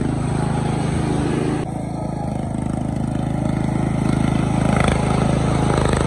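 Engine of a 14.5-horsepower Murray riding lawn mower running steadily, with a brief dip in level about a second and a half in.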